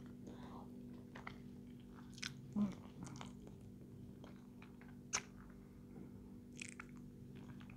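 A person chewing a mouthful of salmon, with faint wet mouth clicks and one sharper click about five seconds in. A faint steady hum runs underneath.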